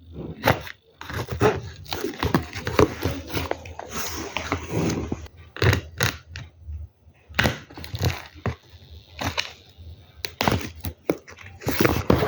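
A delivered package of hand-feeding formula being handled and opened by hand: irregular thuds and knocks with scraping and rustling of the packaging.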